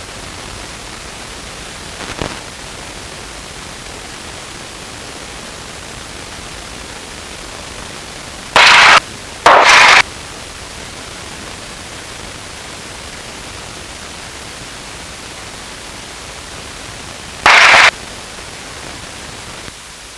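Steady hiss of static on the aircraft's radio and intercom audio, broken by three short, loud crackles of static, the second coming about a second after the first and the third near the end. The crew puts the interference down to the rain.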